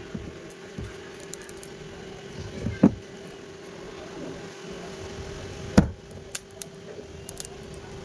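Two sharp knocks about three seconds apart, with a few lighter clicks, over a steady low hum.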